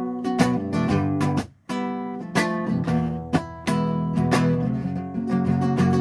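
Acoustic guitar strumming chords, an instrumental break with no singing, with a short stop about a second and a half in.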